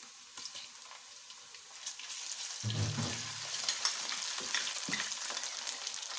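Crushed onions sizzling in hot oil in a steel kadai, stirred with a wooden spatula that scrapes and clicks against the pan. About two seconds in the sizzle grows louder as ginger-garlic paste goes into the oil.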